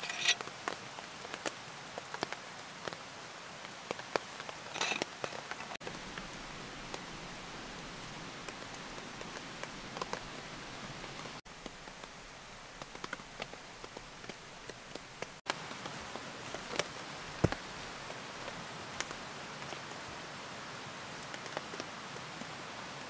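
Steady rain falling, with individual raindrops landing close by as sharp scattered taps. The sound breaks off very briefly three times.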